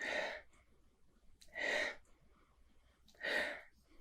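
A person sniffing a glass of pilsner to smell its aroma: three long breaths in through the nose, about a second and a half apart.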